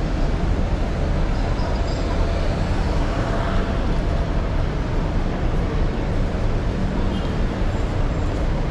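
Steady low rumble of heavy city street traffic, many vehicle engines running together.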